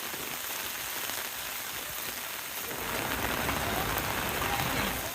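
Heavy rain falling on an umbrella and the wet street, growing louder about three seconds in.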